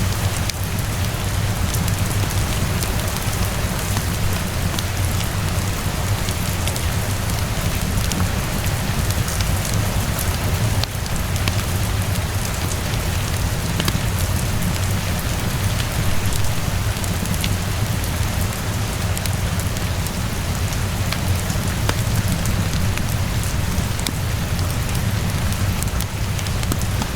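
Steady heavy rainfall with a deep, constant low rumble underneath, mixed with the scattered small pops and ticks of a crackling wood fire.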